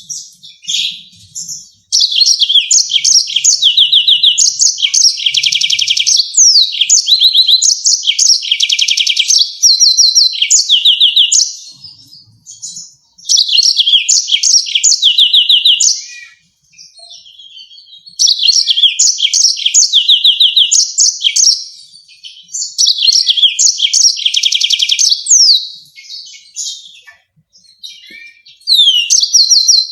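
Yellow-fronted canary singing in long, fast phrases of rapid trills and steeply falling notes, four or five bursts of song with short pauses between them.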